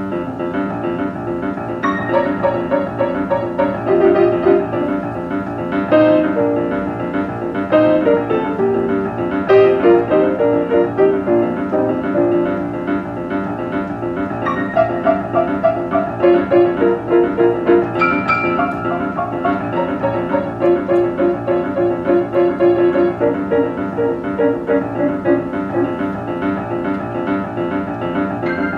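Solo acoustic piano improvisation, a jazz pianist playing a continuous flowing passage of chords and melody.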